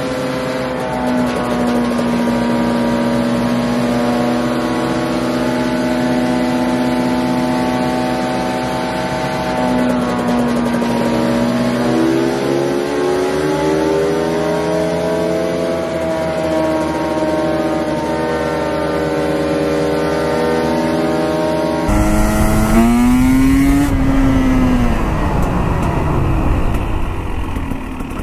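KTM 300 TPI single-cylinder two-stroke engine running under load on a chassis dyno, its pitch held steady and slowly rising, with a brief dip and recovery about eleven seconds in. The engine runs on 60:1 premix with its oil injection pump deleted. About 22 seconds in the sound switches to the bike being ridden, with wind noise over the engine as it revs up and then eases off.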